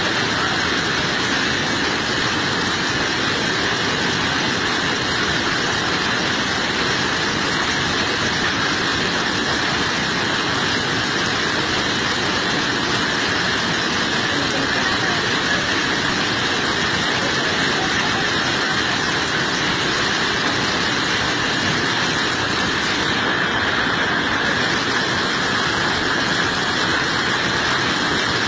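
Floodwater rushing, a steady, even noise with no letup.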